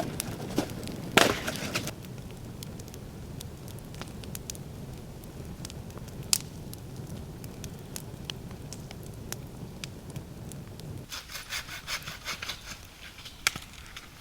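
Wood being cut by hand with a saw: a few sharp rasping strokes and cracks, then a quicker run of short strokes near the end.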